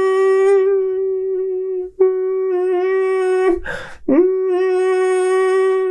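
A man's voice imitating a mosquito in the singing exercise of that name: a buzzing, ringing hum held on one steady pitch in head voice. It breaks off briefly about two seconds in, then a quick breath in comes just before the hum starts again on the same note.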